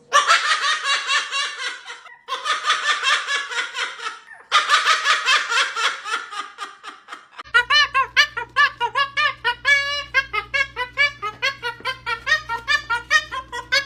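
White cockatoo laughing in imitation of human laughter: fast, dense cackling broken by two brief pauses, then a longer run of evenly paced 'ha-ha' syllables about halfway through.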